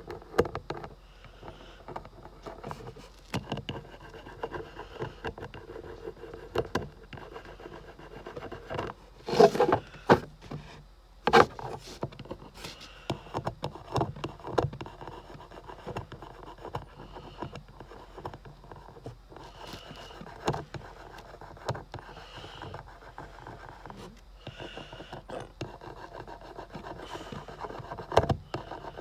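Marker tip rubbing and scratching over a logo badge while it is handled, many small clicks and taps, with louder knocks about nine and a half and eleven and a half seconds in and again near the end.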